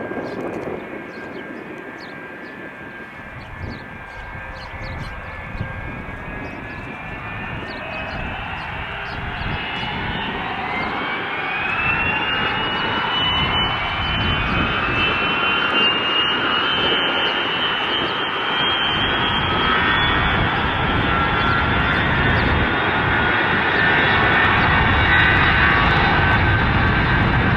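Four Pratt & Whitney JT3D turbofan engines of a Boeing 707-300C at takeoff power. Their whine rises in pitch about a quarter of the way in, then holds, while the engine noise grows steadily louder.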